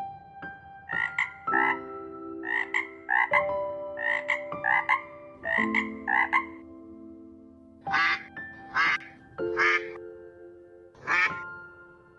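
Short animal calls, mostly in pairs, roughly one pair a second, over music with held notes that change pitch along with the calls. From about 8 seconds in, the calls come singly and sound brighter and harsher.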